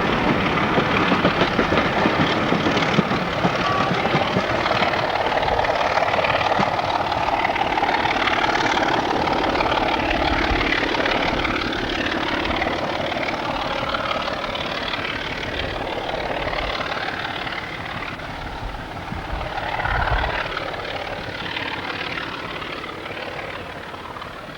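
Diesel train engine running, loud at first and slowly fading as it draws away.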